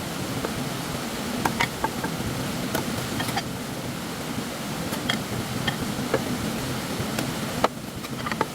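Steady rush of stream water, with scattered light clicks and knocks over it and a sharper knock about three quarters of the way through.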